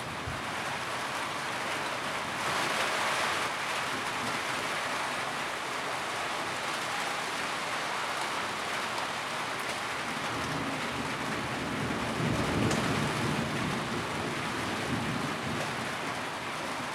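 Steady rain drumming on a tin roof, an even hiss with a brief heavier spell about three seconds in. A low rumble swells underneath from about ten seconds and fades before the end.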